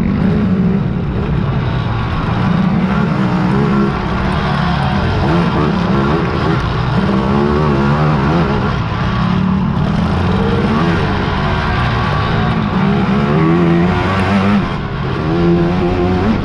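Engines of big-bore racing quads (ATVs) running hard through the whole stretch, their pitch rising and falling again and again as the riders work the throttle.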